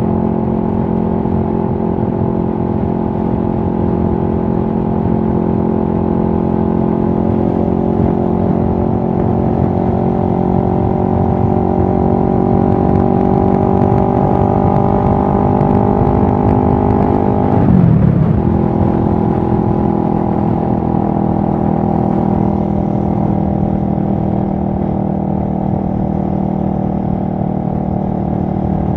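2023 CFMoto 650NK's parallel-twin engine running at a steady, even note as the motorcycle is ridden, the pitch creeping up slightly, with a brief sweep and a slightly louder moment about two-thirds of the way through before it settles back to a steady drone.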